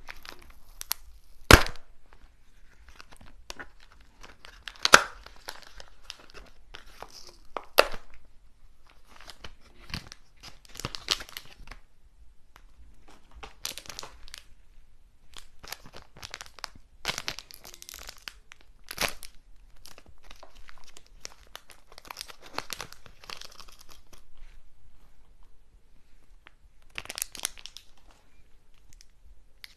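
Close-miked crinkling and tearing of snack packaging in bursts, broken by a few sharp snaps.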